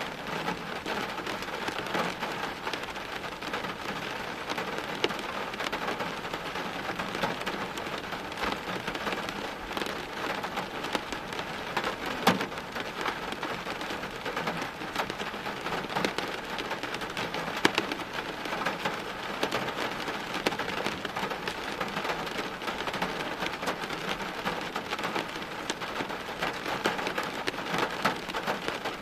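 Steady heavy rain falling on hard surfaces, a dense hiss with many separate drops spattering, and a few louder drop hits near the middle.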